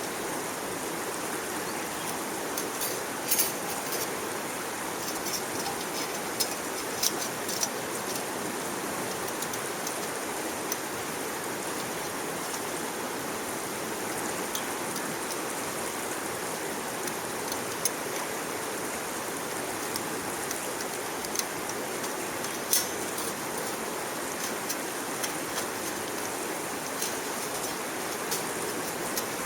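Small wood fire burning in a backpacking wood stove: a steady rushing hiss with scattered sharp crackles and pops.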